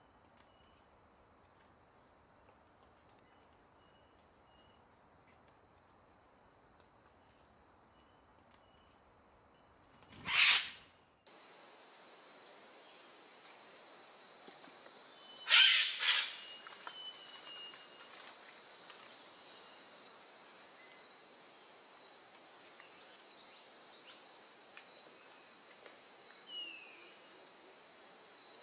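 Outdoor ambience with a steady high-pitched whine and faint bird chirps, broken by two loud sudden calls or noises, about ten and fifteen seconds in.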